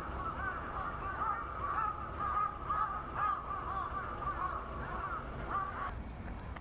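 Many birds of a flock calling at once, a dense chorus of short overlapping calls that cuts off abruptly near the end.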